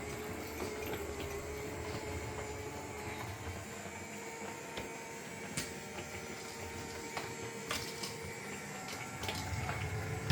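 Small robot cleaner running: a steady motor whine that fades over the first six seconds or so, with scattered light clicks and ticks.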